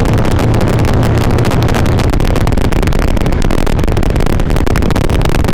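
Harley-Davidson V-twin engine running steadily under way, heard through a helmet-mounted mic together with wind rush.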